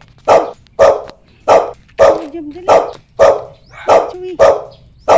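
A dog barking over and over in a steady rhythm, about two sharp barks a second.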